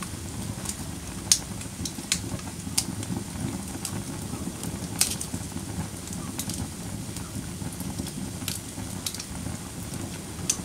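Wood fire burning in a fireplace: a steady low rumble of flame with sharp crackles and pops every second or so, two of them louder, about a second in and about five seconds in.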